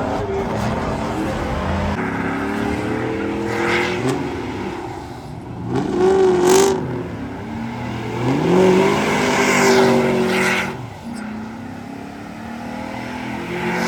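Car engine revving hard again and again, its pitch climbing to two loud peaks, about six and nine seconds in, over the steady running of other engines.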